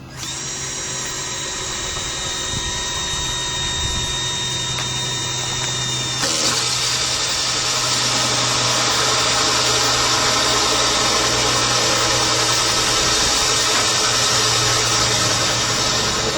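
Handheld electric power tool, such as a drill, running continuously with a steady motor whine; about six seconds in the sound becomes louder and rougher.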